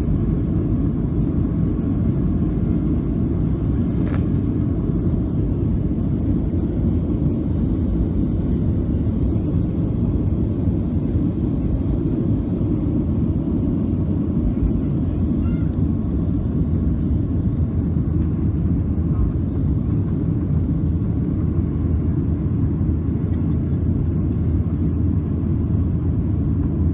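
Steady low rumble of an airliner inside the cabin, its engine and air noise holding at an even level throughout.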